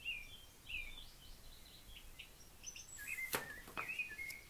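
Small birds chirping faintly in the background, a run of short quick chirps, with a couple of soft clicks about three and a half seconds in.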